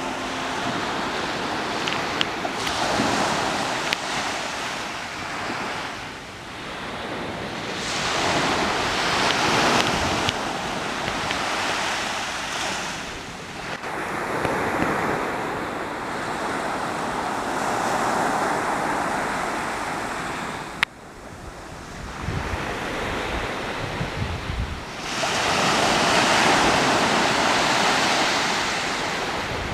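Sea waves washing onto the shore, swelling and receding in several long surges, with wind buffeting the microphone. A single sharp click a little past two-thirds of the way through.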